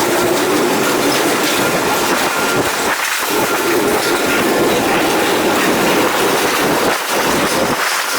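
A freight train's cars rolling past with a steady rumble and clatter of wheels on the rails.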